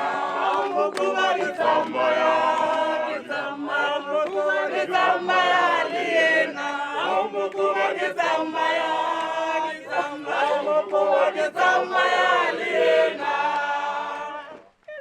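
A group of voices singing and chanting together in chorus, several parts at once with held notes. It cuts off abruptly just before the end.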